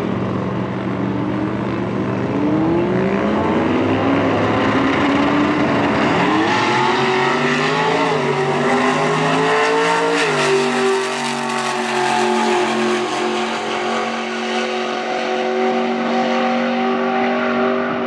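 Drag-racing trucks' engines under full throttle on a pass, the pitch climbing in steps through gear changes, then holding fairly steady in the last several seconds.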